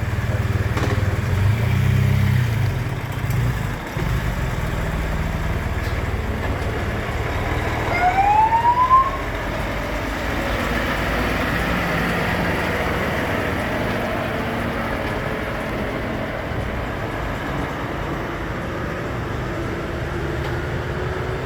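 Heavy trucks running past with a steady low diesel engine rumble, and a short, loud rising siren-like tone about eight seconds in.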